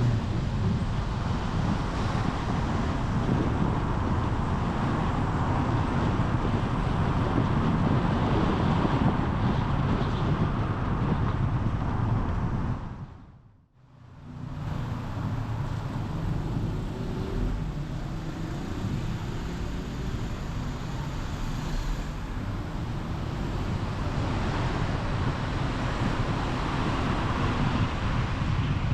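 A car driving on town streets: steady engine and tyre rumble with traffic noise. About halfway through, the sound fades out to near silence and fades back in within a couple of seconds.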